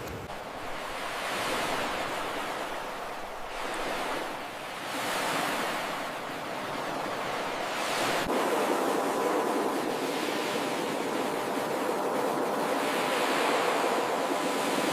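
Ocean surf, waves breaking and washing in, swelling and easing off about four times.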